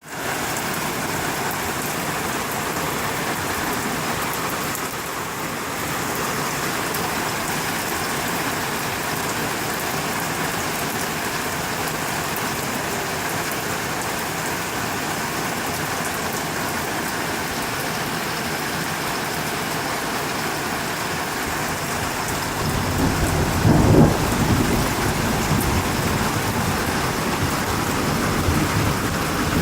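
Heavy rain falling steadily. Near the end, low thunder rumbles in, loudest about three-quarters of the way through.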